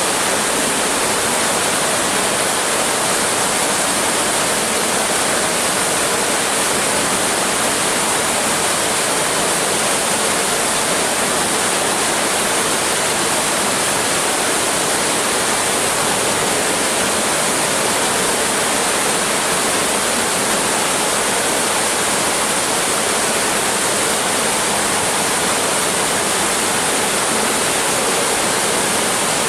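Water pouring steadily from a clear acrylic pool waterfall into the water below, a constant even rush with no change throughout.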